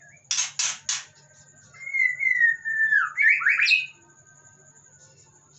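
White-rumped shama calling from inside its covered cage: three short rasping notes, then a loud whistled phrase that slides down and then leaps up in quick rising notes.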